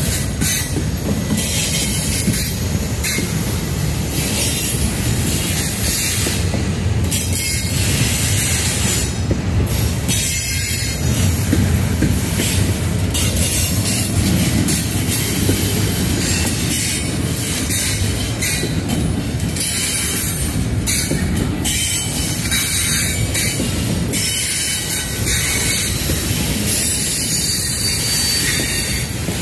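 Cars of a Canadian National intermodal container train rolling past close by: a steady rumble of steel wheels on the rails, with high screeching and scattered clanks throughout.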